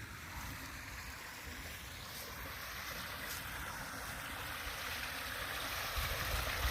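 Floodwater rushing out of a drain pipe and running into a flooded creek: a steady rushing that grows slowly louder, with a low rumble joining near the end.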